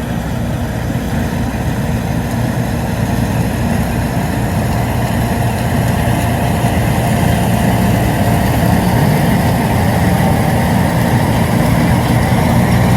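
Tractor diesel engine running steadily at an even pitch, a low hum that grows slightly louder.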